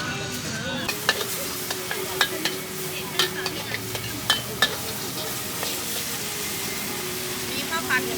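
Steady sizzle of food frying, with scattered sharp clicks and knocks like utensils on a pan, under a faint steady hum.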